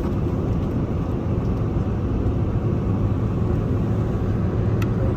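Steady low rumble of an airliner's engines and airflow heard from inside the passenger cabin, with a single short click near the end.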